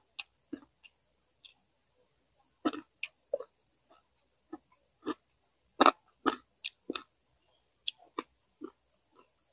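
A person chewing a mouthful of food close to the microphone: irregular short chewing and biting sounds, loudest in a cluster about six seconds in.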